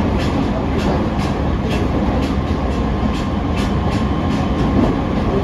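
JR East E501 series electric train running at speed, heard from inside a motor car: a steady low rumble of wheels and running gear, with sharp clicks about twice a second as the wheels pass rail joints.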